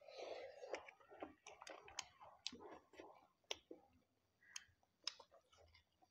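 Faint eating sounds of two people eating by hand: scattered short wet clicks and smacks of chewing, with a soft rustle in the first second.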